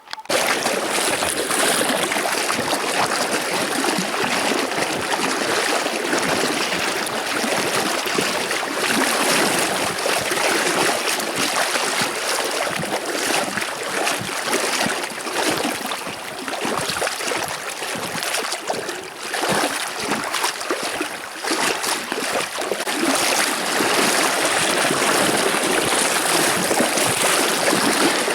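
Rushing river water: a loud, steady wash of flowing water with irregular splashing.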